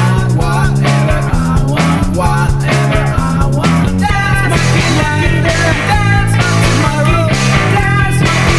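Home-recorded rock song with electric guitar, bass and wailing vocals, deliberately a little out of tune.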